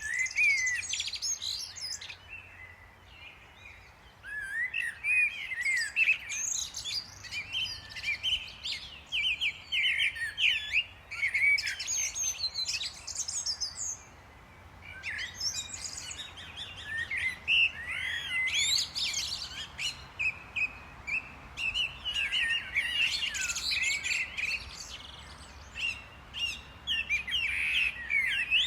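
Small songbirds chirping and twittering, several calls overlapping in busy bouts with short lulls between them.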